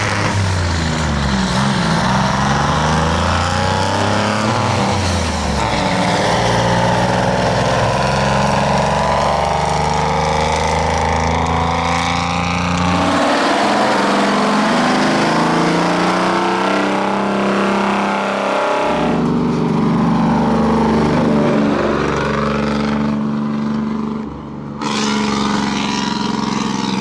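Detroit Diesel 12V71 two-stroke V12 diesel truck engines running and being revved, in several short clips cut one after another. The pitch rises and falls with the revs in the opening seconds, then holds steadier, with abrupt changes of sound about 13, 19 and 25 seconds in.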